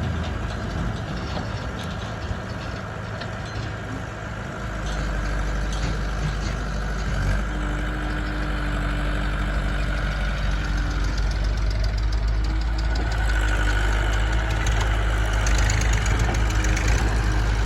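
Diesel engine running steadily, with a low hum that grows louder about four and a half seconds in as the load rises.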